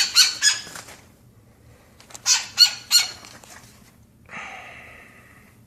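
A woodpecker calls in two quick runs of three or four sharp, high-pitched notes. About four seconds in it gives a longer rasping call that fades out.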